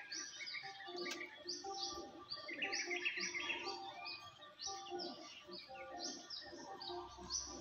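Small birds chirping: a high chirp repeated about twice a second, with a burst of twittering about three seconds in and short lower notes underneath.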